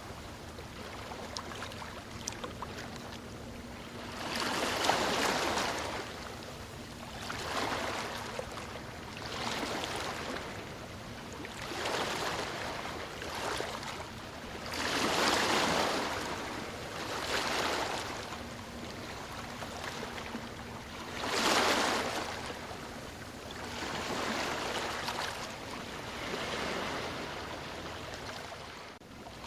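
Ocean waves breaking and washing onto a shore, a rushing surf that swells and fades every two to three seconds. The loudest breakers come about five seconds in, around the middle, and again about two-thirds of the way through.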